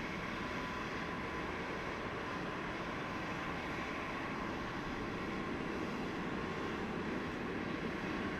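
Steady jet engine noise from an Airbus A350-900's Rolls-Royce Trent XWB turbofans, growing slightly louder.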